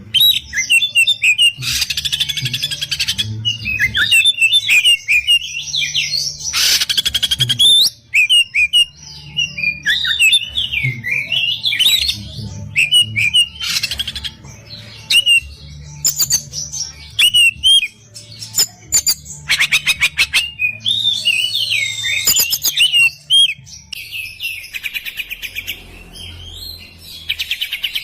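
Oriental magpie-robin (kacer) singing an excited, varied song: quick whistled and chirped phrases, broken by several short harsh rattles of fast clicks. A faint low hum runs underneath.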